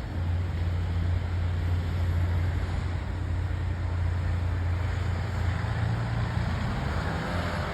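MBTA commuter rail train's diesel locomotive running with a steady low hum under a rushing noise; about five and a half seconds in, the hum rises a little in pitch and the rushing grows louder.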